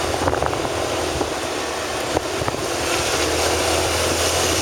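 Wind rushing over the microphone with the low hum of a vehicle's engine underneath, while moving along a road. It gets slightly louder about three seconds in.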